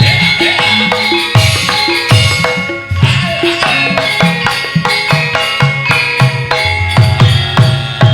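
Instrumental passage of campursari-style music from a wayang kulit gamelan band, driven by a steady rhythm of hand-drum strokes under pitched metallophone and instrument notes, with no singing.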